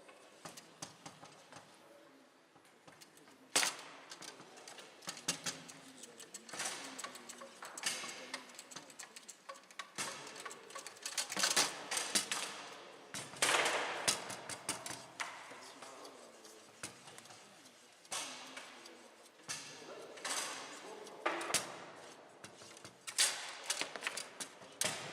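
Foosball being played on a Bonzini table: hard clacks and knocks of the ball against the figures, rods and walls, coming in quick flurries with short pauses between.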